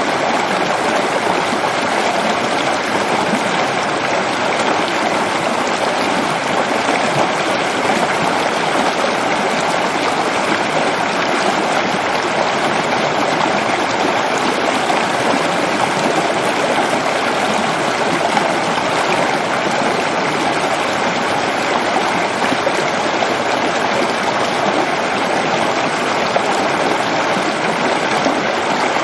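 Waterfall rushing steadily: a loud, unbroken wash of falling water.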